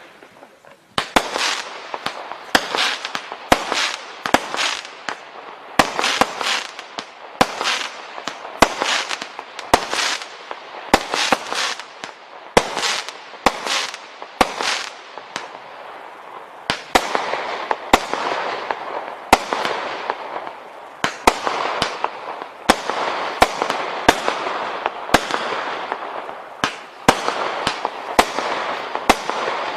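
Firework cake (barrage) firing shot after shot, about one and a half sharp bangs a second, each with a fading noisy tail.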